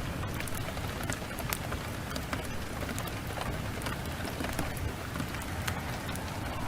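Heavy downpour mixed with a crackling wood fire: a steady rushing hiss over a low rumble, with scattered sharp pops and crackles throughout.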